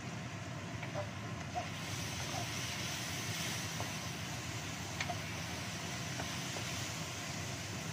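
Spice paste and sliced red chillies frying in oil in a wok over a gas burner. The sizzle grows louder about two seconds in, with a steady low rush underneath. A wooden spatula stirring the pan gives a few short scrapes and taps against the wok.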